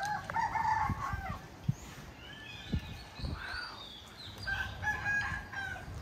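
Birds calling: a longer pitched call in the first second or so and another near the end, with shorter, higher sliding calls between them. Soft low knocks run underneath.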